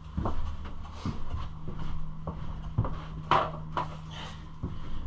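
Scattered light knocks and clicks, about eight in all, over a steady low hum; the sharpest knock comes a little after three seconds in.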